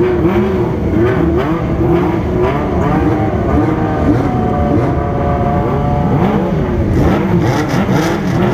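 Several motorcycle engines revving together, their pitches rising and falling again and again and overlapping.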